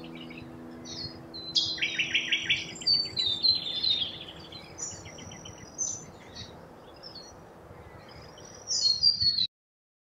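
Small birds chirping and twittering in quick series of high notes, with a louder cluster of calls near the end before the sound cuts off suddenly.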